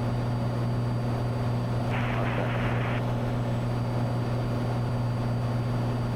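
Cessna 182T's six-cylinder Lycoming engine and propeller droning steadily in flight, a low even hum. About two seconds in, a brief hiss lasts about a second.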